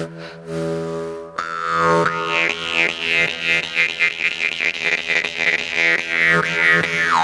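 Music from a droning instrument holding one low note, its overtones sweeping up and down in a quick rhythm. A hissing layer joins about a second and a half in.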